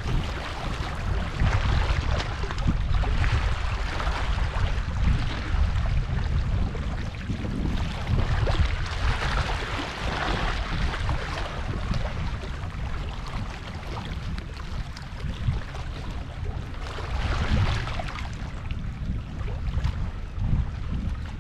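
Wind buffeting the microphone with a steady low rumble, over the hiss of sea surf that swells and eases several times.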